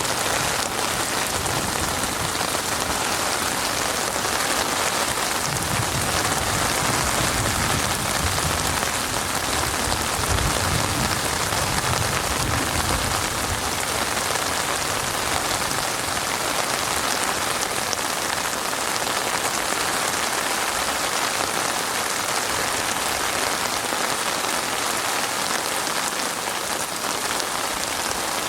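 Heavy rain falling steadily, a dense, even hiss of drops on surfaces. A low rumble sits underneath from about five to thirteen seconds in.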